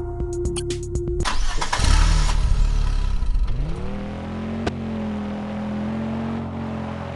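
Cartoon car engine sound effect: about a second in, the music gives way to a loud engine start and rev, then the pitch rises and settles into a steady engine hum.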